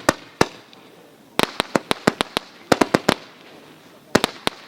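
TS4115 Double Struck Lightning firework going off: sharp cracks in quick clusters, a couple at first, then a rapid run of about six, then shorter groups of three or four.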